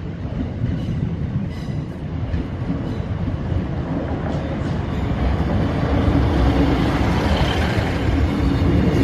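East Midlands Railway Regional diesel multiple unit approaching and running past over a level crossing, its engine and wheels on the rails growing steadily louder, with a steady engine drone strongest near the end.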